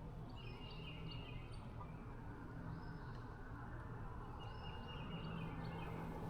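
Birds singing faintly in short repeated phrases, about three times, over a steady low hum.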